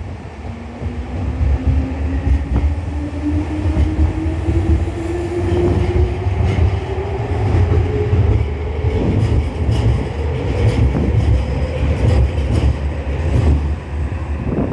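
Nankai Koya Line electric train pulling away, its traction motor whine rising steadily in pitch as it accelerates over a steady low rumble. Wheels click over rail joints in the second half.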